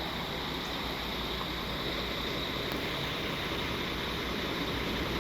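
Train noise: a steady low rumble with an even high hiss.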